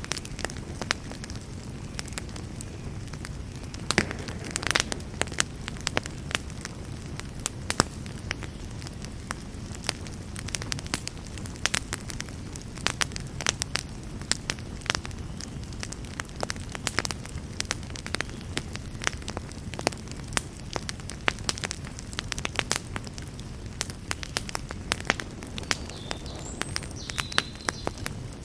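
Wood fire burning, crackling with many irregular sharp pops over a low steady rush of flame.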